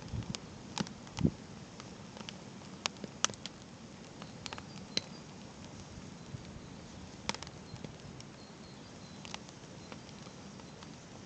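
Wood campfire crackling: irregular sharp pops and snaps, a few louder ones about a second in, over a faint steady hiss.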